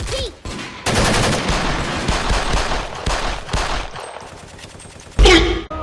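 Rapid automatic gunfire sound effects: a dense volley starts about a second in and thins out over the next few seconds. Near the end comes one loud, short burst.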